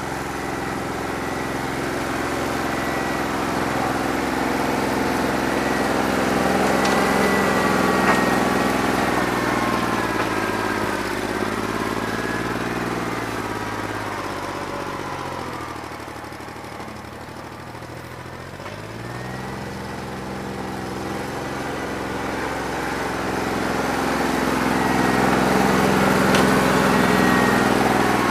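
New Holland 1320 tractor's three-cylinder diesel engine running with a bad injector. Its pitch and loudness fall about halfway through, then rise again.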